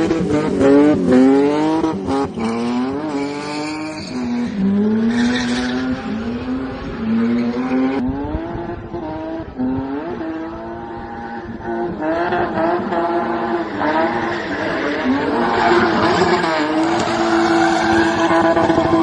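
BMW E30's multi-valve engine being revved hard again and again, its pitch rising and falling with each blip, with tyres squealing in stretches as the car spins.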